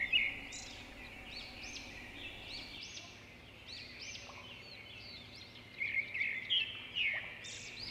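Small birds chirping faintly in a run of short, high, repeated notes, busier and a little louder near the end.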